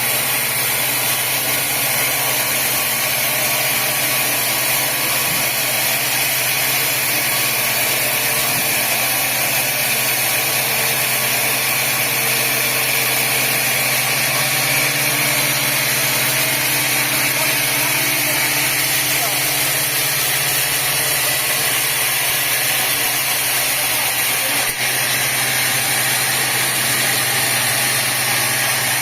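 Sawmill machinery running steadily with an unchanging low hum and hiss; a single brief click near the end.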